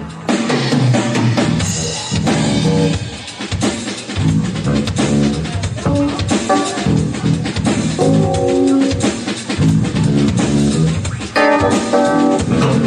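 A live instrumental band playing, with the drum kit busy throughout. Pitched phrases from guitar and the other instruments come in and out over the drums.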